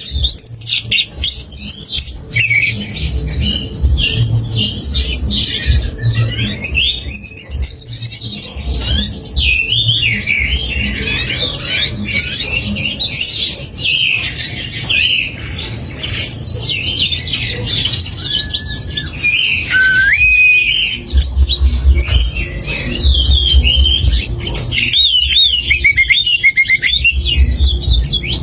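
Recorded songbird song used as a masteran training mix for competition birds: a dense run of quick chirps, trills and sweeping whistles, with a few long level whistles about two-thirds of the way in. A pulsing low beat of background music runs underneath.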